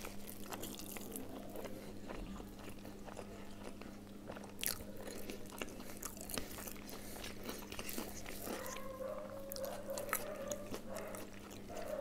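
Close chewing and mouth sounds of a person eating rice and curry by hand, with many small crunches and clicks. A short low hum comes about two-thirds of the way through.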